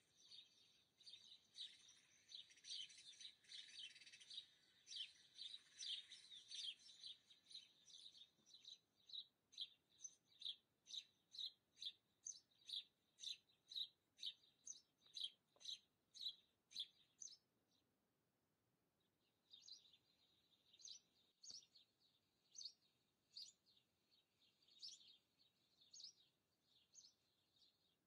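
Faint bird chirping. A dense twittering at first gives way to a run of regular chirps, about two a second, which breaks off for a couple of seconds past the middle and then resumes.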